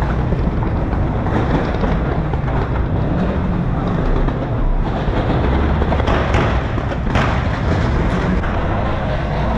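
Several modified cars revved hard at once through loud aftermarket exhausts, making a continuous din with deep rumble. Two sharp bangs stand out about six and seven seconds in.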